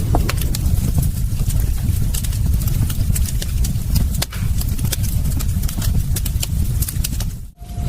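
Wood fire crackling, with many sharp pops and snaps over a steady low rumble of flames.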